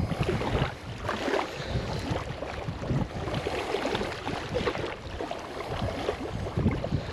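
Wind buffeting the microphone in uneven gusts, with irregular crackling and knocking, likely water and handling noise.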